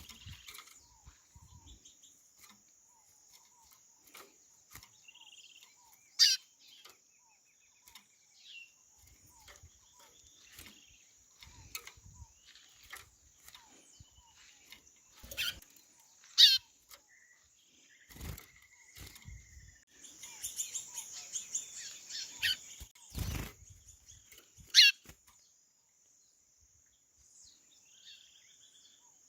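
White-bellied seedeaters (chorão) calling in the wild: loud, sharp calls that fall quickly in pitch, spaced several seconds apart, among softer chirps, over a steady high-pitched background drone. Two low thumps come about two-thirds of the way through.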